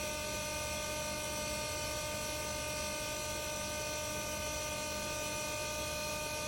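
BougeRV 42-quart portable 12V compressor fridge running: a steady electric hum with several fixed whining tones from its compressor and fan.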